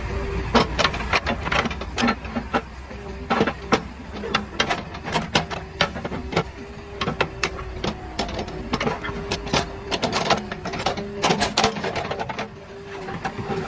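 JCB 3DX backhoe loader at work: its diesel engine running steadily under a fast, irregular clatter of knocks and rattles. The clatter stops about twelve and a half seconds in, leaving the engine running.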